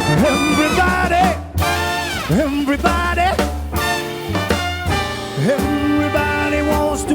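A swing jazz band playing an instrumental passage: trumpet, trombone and woodwinds over piano, guitar, bass and drums. Several notes are scooped upward into pitch, and held horn chords sound near the end.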